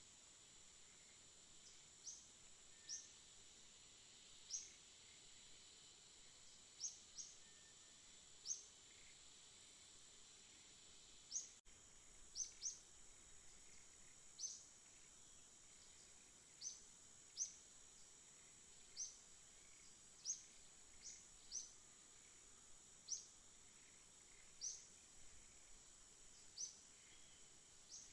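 Small bird giving short, sharp chirps, each a quick downward sweep, repeated irregularly about once every one to two seconds over a steady high insect drone.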